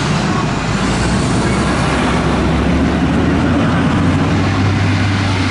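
Heavy fire truck's diesel engine running loud and close, its note climbing slightly as it pulls away.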